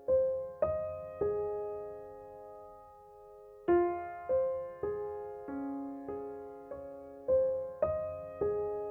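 Slow, soft piano music: notes struck one or two at a time, about every half second to a second, each ringing and fading away.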